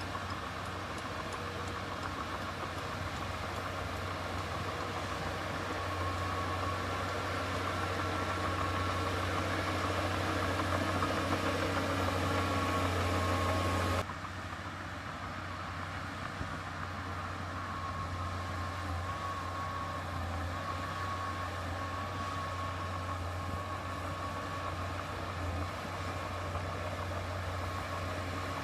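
Diesel engine of heavy earthmoving machinery running steadily with a low hum and a faint whine. It grows louder for several seconds, then cuts off abruptly about halfway through to a quieter, steady run.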